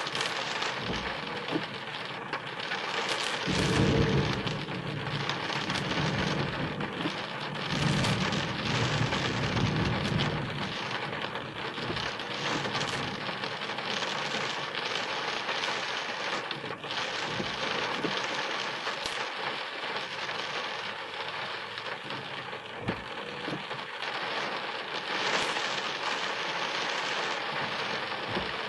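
Rain pattering steadily on a car's body and windscreen, heard from inside the car, with two low rumbles of thunder: one about four seconds in, and a longer one from about eight to ten seconds in.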